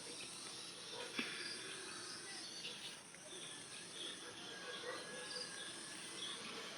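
Steady high-pitched drone of crickets and other insects, with scattered short bird chirps over it and a single click about a second in.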